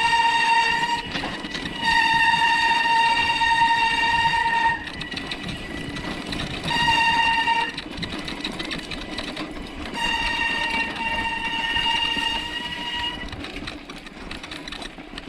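Bicycle brakes squealing while braking on a rough off-road descent: a steady high, horn-like squeal held about four times, for one to three seconds each, with rough rolling noise between.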